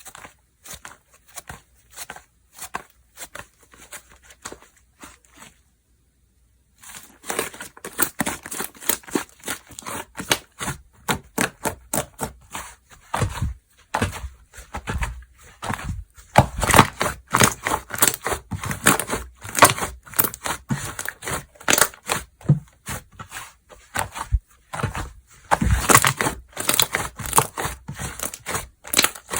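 Slime being squeezed, stretched and poked by hand, making rapid small clicks, crackles and pops. It is faint at first, then louder and denser from about seven seconds in.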